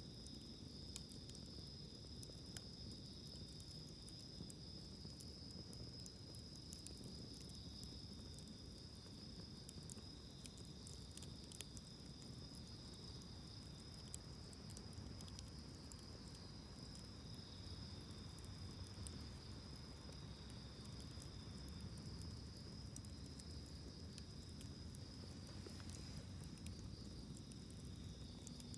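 A steady, high-pitched insect chorus with a continuous trill, over faint scattered crackles and pops from a wood campfire.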